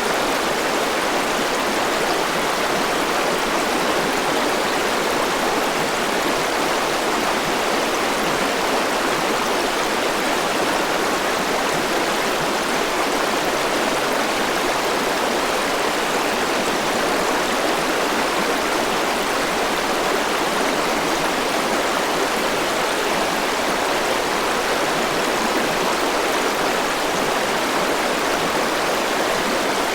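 Forest river rushing over rocks, a steady even rush of flowing water.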